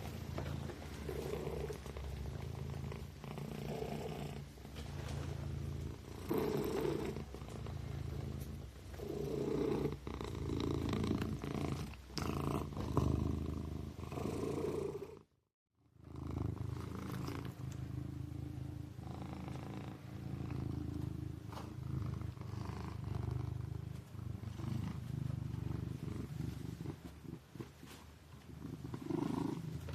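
Kitten purring: a steady low rumble rising and falling in level every couple of seconds. It cuts out completely for under a second about halfway through.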